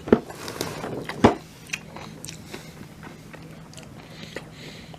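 Close-up chewing and mouth sounds of a person eating a poke bowl of rice, salmon and vegetables, with two sharp clicks in the first second and a half and a few fainter ones after.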